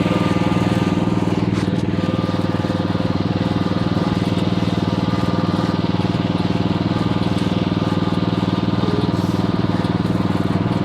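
Small engine of a ride-on vehicle running steadily at an even speed as it is driven slowly.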